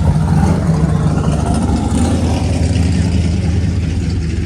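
Car engine running steadily with a deep, low drone.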